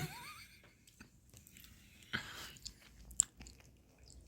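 A person chewing and crunching food close to the microphone: sparse soft crunches and clicks, with a short louder crunch about two seconds in.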